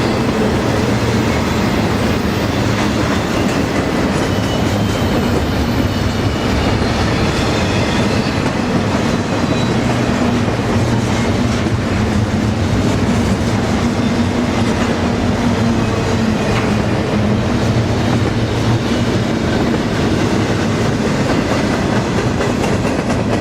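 Double-stack container freight train rolling past, with a steady rumble and clatter of steel wheels on rail.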